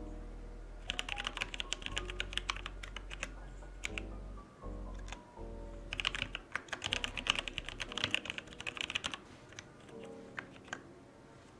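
Typing on a computer keyboard: two quick runs of rapid keystrokes, then a few scattered key presses near the end.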